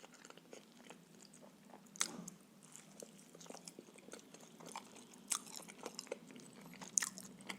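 Close-miked chewing of a cabbage-filled pancake (blin): soft, wet mouth clicks and smacks, with a few sharper bites about two, five and seven seconds in. A faint steady low hum sits underneath.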